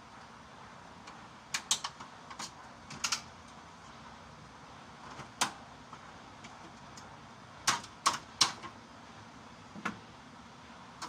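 Sheet-metal fluorescent light fixture housings being handled and set down: irregular sharp knocks and clatters, a small cluster in the first few seconds, a single one in the middle, and three loud ones in quick succession near the end.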